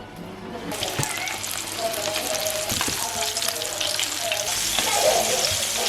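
Food frying in hot oil: a dense, steady crackling sizzle that starts about a second in.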